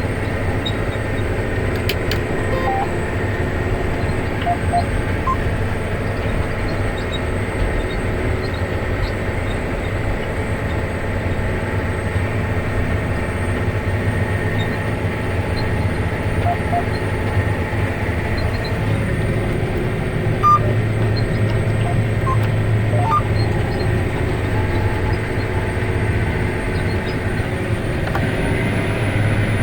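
John Deere 9530 four-wheel-drive tractor's diesel engine running steadily under load while pulling a high-speed disc at speed. The deep hum grows stronger about two-thirds of the way through.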